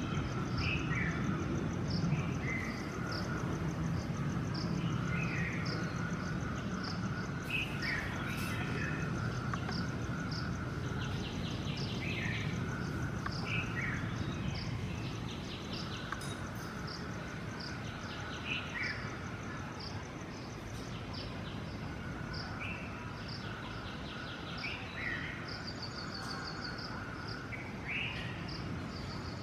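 Outdoor ambience: small birds give short scattered chirps, and an insect, likely a cricket, chirps steadily in an even high-pitched rhythm. A few buzzy trills come and go over a low background rumble.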